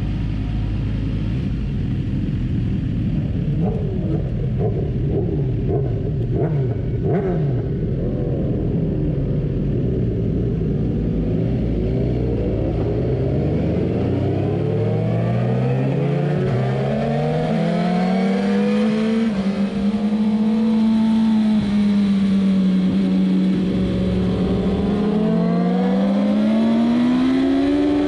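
Suzuki GSX-R1000's inline-four engine, first running at low revs as the bike rolls off from standstill while another motorcycle's engine revs nearby. From about halfway in, the engine note rises with each pull through the gears, holds steady for several seconds, then climbs again near the end under hard acceleration.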